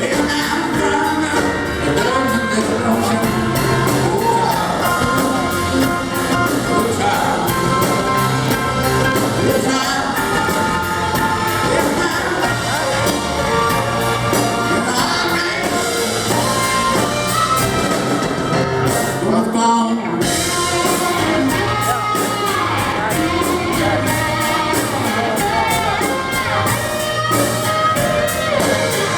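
Live band music with a lead singer, carried by a steady beat of high cymbal or tambourine ticks, echoing in a large hall; the band breaks off for a moment about twenty seconds in.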